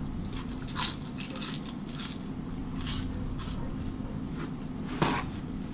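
Close-up mouth sounds of a person chewing a mouthful of food, with scattered wet clicks and smacks, the strongest about five seconds in, over a steady low hum.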